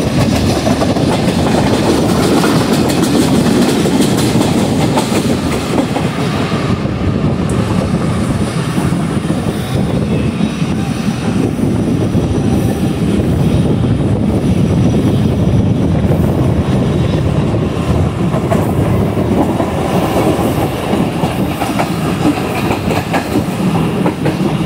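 Passenger train coach running along the track, heard from its open doorway: a steady, loud rumble and clatter of the wheels on the rails.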